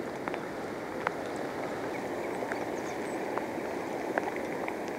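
River water rushing steadily around the wading angler, with scattered small ticks and drips over it.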